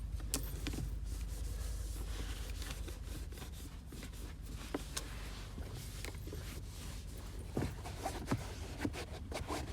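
Towel rubbing and small knocks from wiping a car's interior door panels, with a few sharper taps near the end, over a steady low hum.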